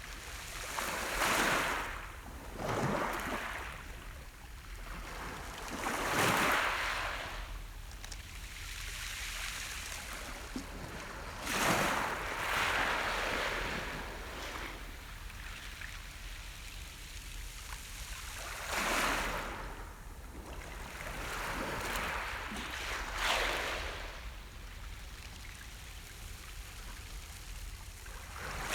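Sea waves breaking on the shore one after another, each surge of surf swelling into a hiss and washing back every few seconds.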